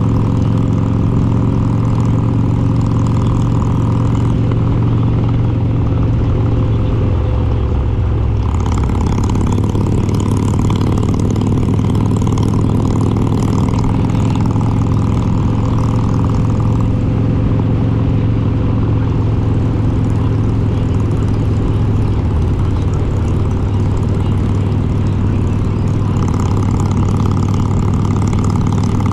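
Harley-Davidson Road King's S&S 95-cubic-inch V-twin with Super Stock heads running steadily under way, loud throughout. The engine note shifts about a third of the way in.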